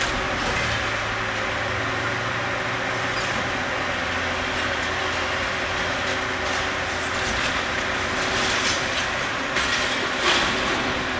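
Diesel engine of demolition machinery running steadily with a low hum, with scattered cracks and knocks of breaking material, the loudest about ten seconds in.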